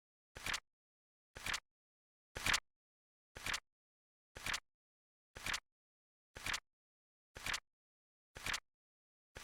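Flip-clock timer sound effect ticking: a short, sharp double click once every second, with dead silence between.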